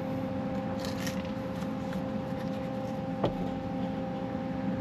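Steady machine hum with a few constant tones, and a single sharp click a little past three seconds in.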